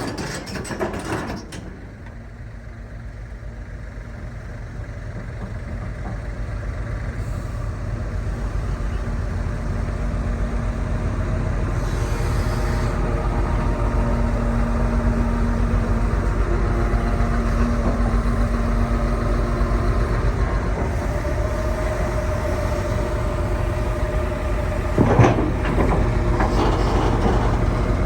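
Hitachi ZX330LC-3 excavator's diesel engine running steadily, deep and low, growing louder over the first dozen seconds and then holding level. A short sharp knock comes about 25 seconds in.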